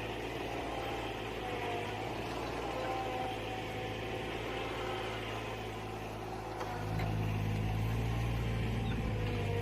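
A farm machine's engine running steadily, getting louder about seven seconds in.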